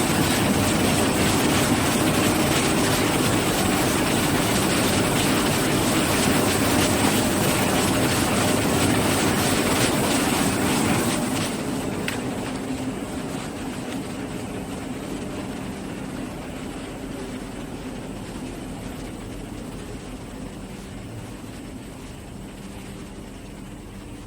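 Factory machinery running, with a fast, even clatter over a steady hum and a thin high whine. It grows gradually quieter from about halfway.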